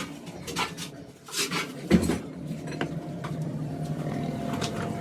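Metal tools clinking and knocking, a handful of sharp strikes with the loudest about two seconds in, followed by a steady low hum.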